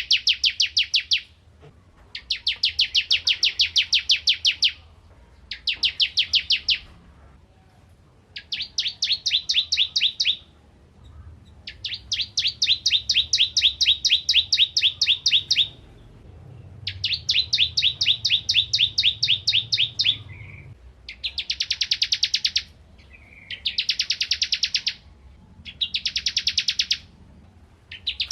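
Ciblek kristal (a prinia) singing loudly and repeatedly: about ten bursts of rapid, evenly spaced high notes, each burst one to four seconds long, separated by short pauses.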